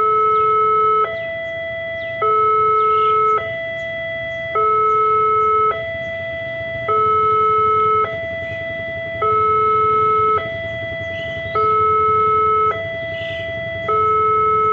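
Railway level-crossing warning sounder alternating steadily between two tones, a lower, louder one and a higher, quieter one, each held a little over a second. It is the crossing's alarm that a train is approaching while the barrier is down.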